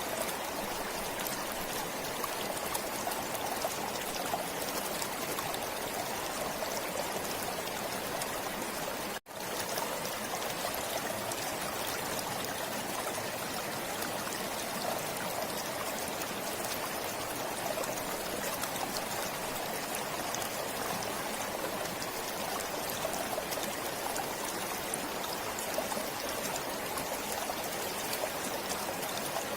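A stream of water flowing steadily, an even rushing sound with no let-up; the sound cuts out for an instant about nine seconds in.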